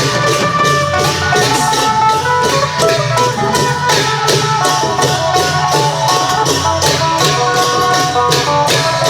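Isan klong yao long-drum band playing with a phin (plucked lute) carrying the melody, over a fast, dense beat of drums and metal percussion.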